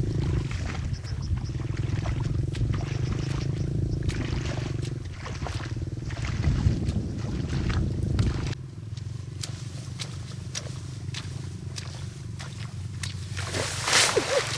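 A small engine-driven machine running with a steady low hum and rapid rattling clicks. About eight and a half seconds in it drops away abruptly, leaving a quieter hum, and a brief loud rush comes near the end.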